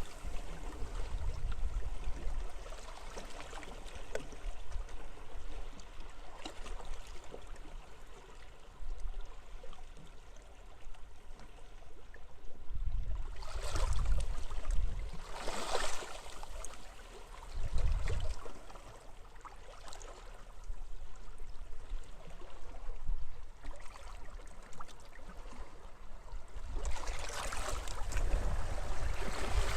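Sea waves washing up a beach in rising and falling surges, with wind. The wind buffets the microphone in low rumbles, and the surf swells about halfway through and again near the end.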